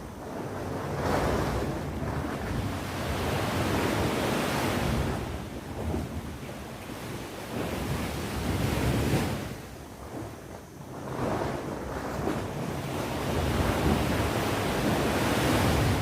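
Sea waves breaking and washing on the shore, the surf swelling and ebbing in slow surges every few seconds, with a lull about ten seconds in. Wind rumbles on the microphone underneath.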